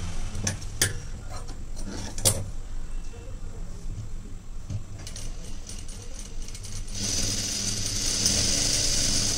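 A few sharp clicks of fabric and machine being handled, then about seven seconds in a sewing machine starts running steadily, stitching a half-inch seam.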